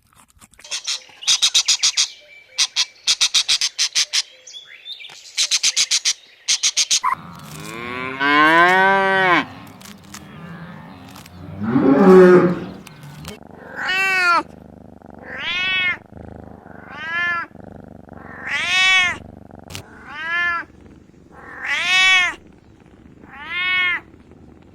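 Three short bursts of rapid, high clicking trills, then a cat meowing over and over. The first two meows are long; after that they come short and evenly spaced, about one every second and a half.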